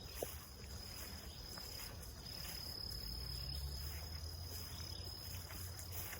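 Insects giving a steady, unbroken high-pitched trill, a little louder in the middle. Underneath is a low rumble that swells mid-way, and there is one short click just after the start.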